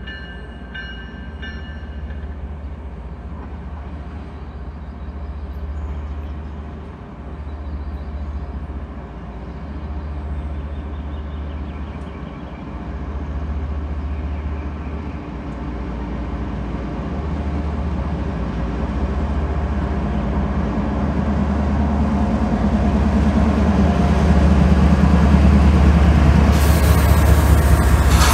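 Norfolk Southern freight train's diesel locomotives approaching and passing, their deep engine rumble growing steadily louder. A sharp hiss joins in about two seconds before the end as the units go by.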